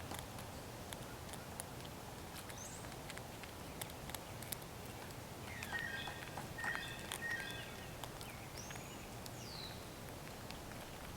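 Faint outdoor ambience with scattered small clicks and taps. A bird calls a little past halfway with a short series of clear repeated notes, and there are a couple of high, quick falling chirps.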